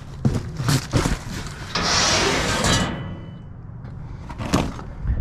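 Scrap metal being handled: a few knocks, then a loud scrape about two seconds in that leaves a short ringing tone, and another knock near the end.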